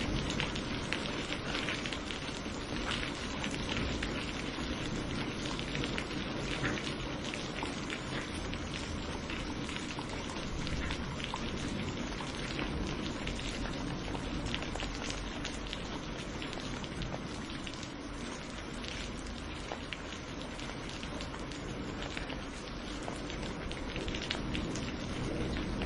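Steady rain falling on a surface, with many separate drop hits ticking through the constant hiss.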